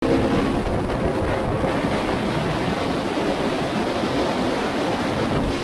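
Steady, loud wind noise rushing over the microphone.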